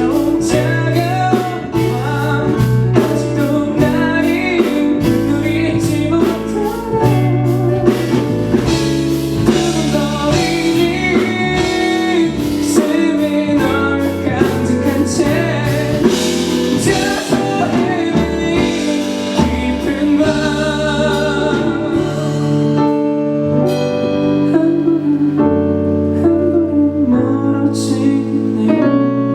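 Live band performance of a pop ballad with a male vocalist singing. Drum hits run under the song and thin out about two-thirds of the way through.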